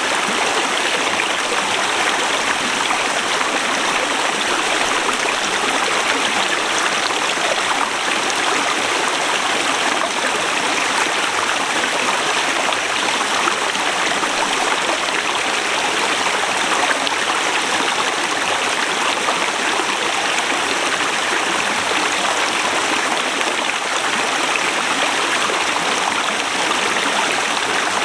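Forest river rushing steadily over rocks, a constant loud flow with no change.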